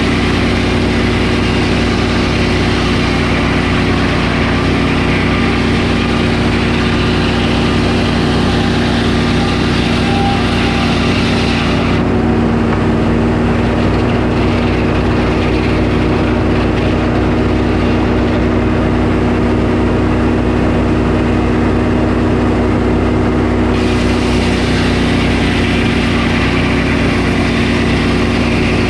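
Sawmill engine running steadily at loud, even power while sawing a pine log into boards. The high hiss drops away for about twelve seconds in the middle and then returns.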